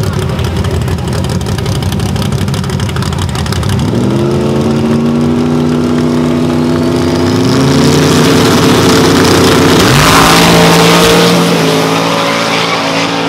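Chevrolet Camaro SS drag car's V8 running roughly at the starting line, then brought up to higher revs in two steps and held there. About ten seconds in it launches at full throttle, at its loudest, and pulls away down the strip.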